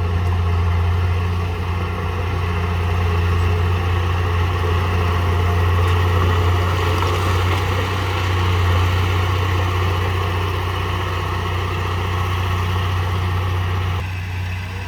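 Diesel engine of heavy earthmoving equipment running steadily with a deep drone; it drops a little in level near the end.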